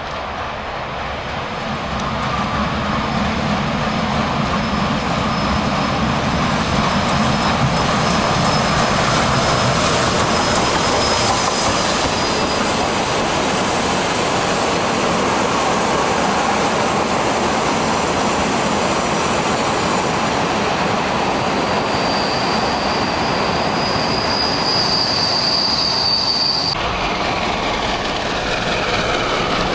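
Steam-hauled train of passenger coaches rolling past close by: a steady roar of wheels on rail, with a high steel-wheel squeal that grows in the later part. The sound changes abruptly near the end.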